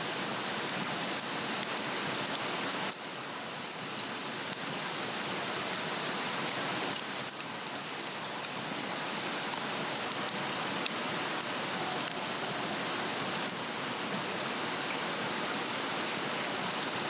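Swedish torch (a split cedar log) burning on a fire stand: a steady rushing hiss with a few faint scattered crackles.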